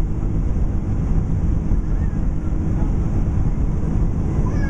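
Steady, loud roar of a Boeing 767-300's engines and rushing airflow heard inside the passenger cabin during takeoff, with faint voices under it.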